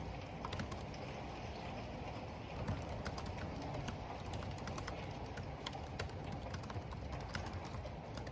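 Typing on a computer keyboard: irregular key clicks, several a second in spurts, over a steady rush of wind and rain.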